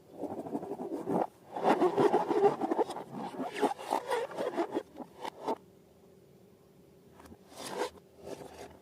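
Rubber balloons and slime being handled: dense rubbery scraping and rubbing for about five seconds, then quieter, with a faint steady hum and a few more scrapes near the end.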